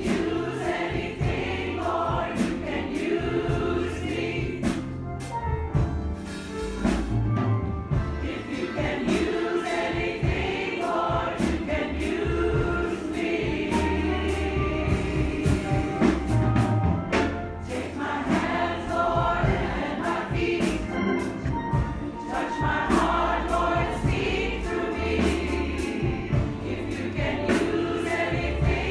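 Church congregation singing a gospel song together, backed by a band with a sustained bass line and steady drum hits.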